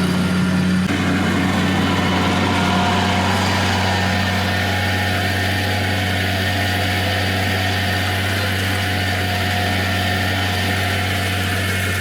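Bobcat MT100 mini track loader's Kubota diesel engine running at a steady idle, with its muffler loose and held on by a single bolt. The pitch shifts slightly about a second in.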